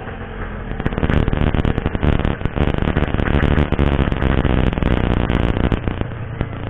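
Yamaha RX King 135cc two-stroke single-cylinder motorcycle engine revving up under hard acceleration, with a rasping, crackling exhaust, then easing off near the end.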